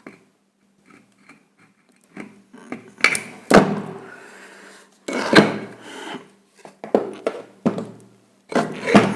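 Scattered knocks, clunks and rubbing from parts and tools being handled on a work surface, with the loudest knocks about three and a half, five and nine seconds in.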